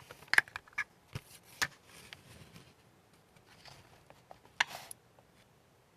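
Light clicks and taps of small objects being handled at a workbench, with a short rustle just before the end; no steady spray hiss.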